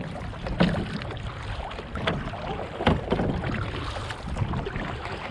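Kayak paddle strokes dipping and splashing in lake water, a stroke every second or so, with wind rumbling on the microphone.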